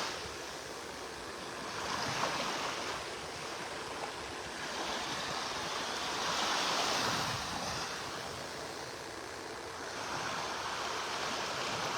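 Gulf surf washing onto the beach, swelling and fading every few seconds.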